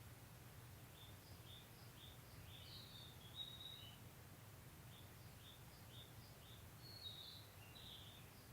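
Faint birdsong: short high chirps repeated every half second or so, with longer calls about three seconds in and again near the end, over a steady low hum.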